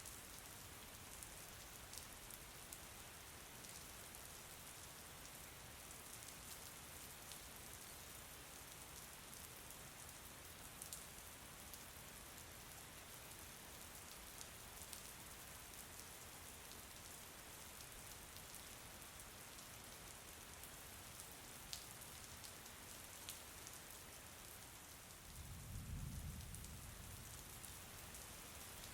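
Soft, steady rain falling on a surface, with scattered individual drop ticks. A brief low rumble comes about 26 seconds in.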